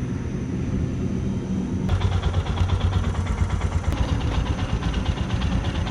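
A steady low engine hum, then about two seconds in a motorcycle engine comes in louder, idling with a rapid, even beat.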